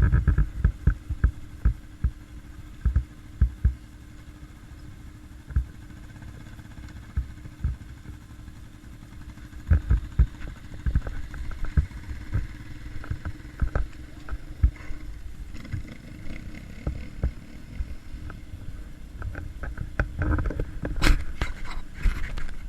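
Motorcycle engine running steadily at low revs, with many irregular low thumps and knocks over it, thickest near the start and again near the end.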